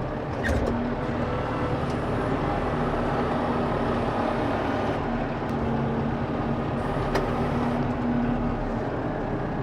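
Farm tractor engine running steadily, with a faint steady whine over the engine noise and a few light knocks.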